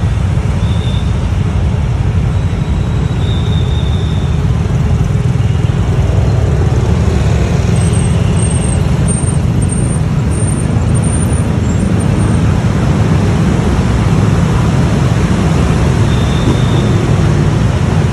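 Riding on a motorbike through city traffic at night: a loud, steady low rumble of engine, road and air noise, with a run of short high chirps about eight seconds in.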